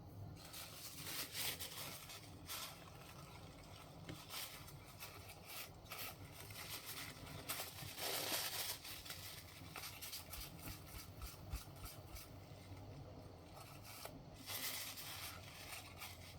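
Faint handling noises from working on a wooden Jacobs ladder toy: light knocks of the small wooden blocks, and scraping and rubbing of hands and fabric strips on wood. There is a longer scrape about eight seconds in.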